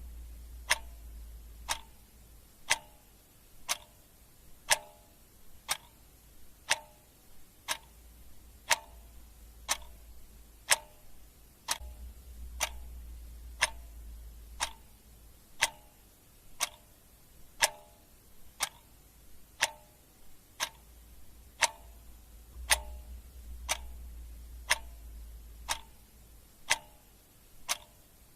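Clock ticking steadily about once a second, the ticks alternating stronger and weaker like a tick-tock, over a faint low hum that swells and fades.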